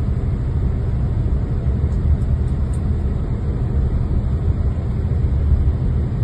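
Steady, loud low rumble of an outdoor recording, with no distinct events.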